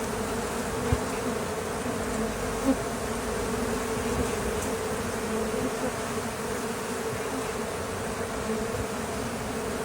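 Dense buzzing of a large open-air honeybee colony, a steady drone of thousands of bees stirred up while their combs are worked through.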